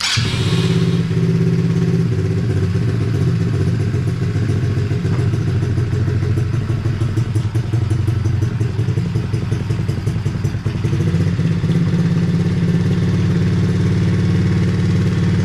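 Hawk 110cc ATV's single-cylinder four-stroke engine starting suddenly and then running steadily on choke, freshly fitted with a replacement carburetor; it keeps running without stalling.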